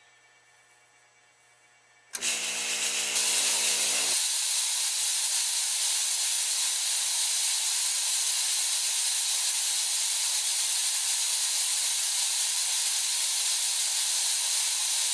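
Chauvet Hurricane 1700 fog machine firing: a loud, steady hiss of fog jetting out starts abruptly about two seconds in, with a buzzing hum under it for its first two seconds, and cuts off suddenly at the end. The fog machine is heating and fogging properly with its replacement thermostat.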